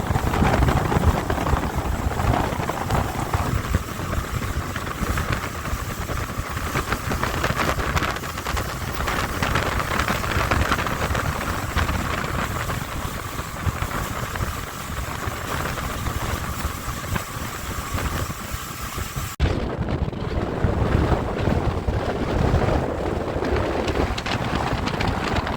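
Wind buffeting the microphone over the steady running of a Mercury 150 hp four-stroke outboard and rushing water as the aluminium-hulled boat cruises at about 30 knots, with a thin steady whine in the middle part. The sound changes abruptly about nineteen seconds in.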